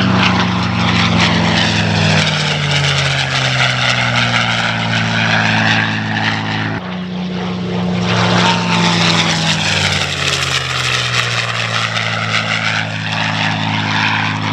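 North American P-51D Mustang's Packard Merlin V-12 engine at high power in a low fly-by, its pitch falling as it passes. About seven seconds in the sound breaks off sharply and comes back high, falling again as a second pass goes by.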